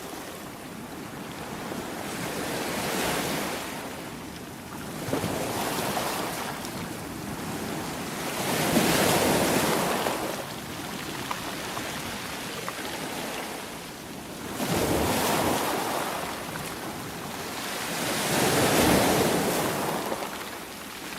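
Sea waves breaking and washing in, the rush of water swelling and fading with each wave, about five surges.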